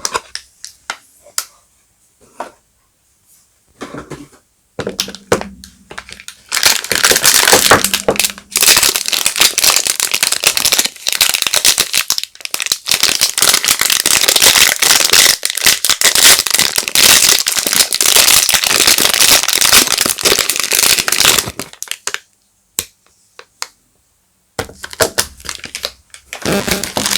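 Soap wrapper being unwrapped and crumpled by hand, a dense crinkling that runs for about fifteen seconds after a few scattered crackles, stops briefly, then starts again near the end.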